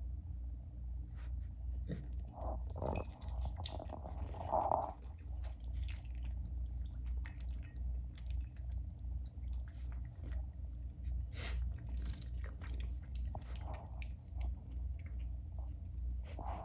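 A pig chewing and crunching food, with many small wet clicks and a couple of brief snuffling sounds, over a steady low hum.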